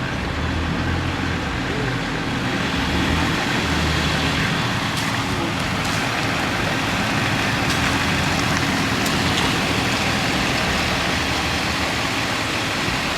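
Car engine running at low speed with a steady low rumble, as the car pulls slowly across a parking lot.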